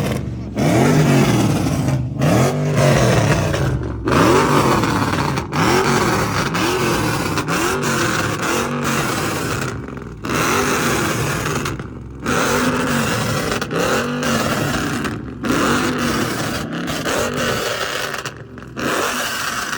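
Car engine revved over and over, each rev climbing in pitch and falling back, about one every second or two, with several abrupt cuts in the sound.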